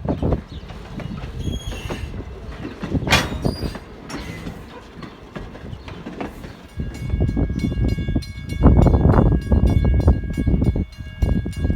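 Strasburg Rail Road No. 89, a 2-6-0 steam locomotive, running with its train: uneven exhaust and running noise that grows heavier in the second half. About seven seconds in, a steady high-pitched ringing of several tones starts and carries on.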